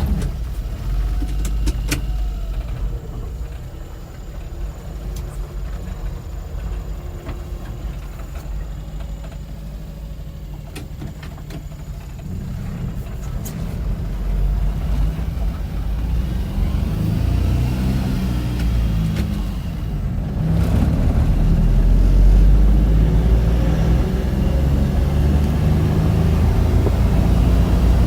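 1990 Suzuki 4x4 mini truck's small three-cylinder engine running as the truck is driven, getting louder as it picks up speed, with its pitch rising and dropping through gear changes and then holding steady and loud.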